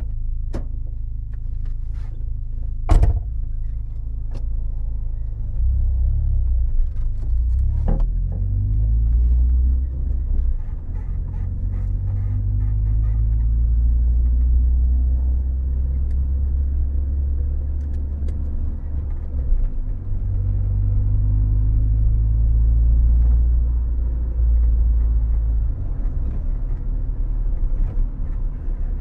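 Toyota AE92's engine running with a low rumble that swells and falls as engine speed rises and drops, after a few sharp clicks in the first seconds.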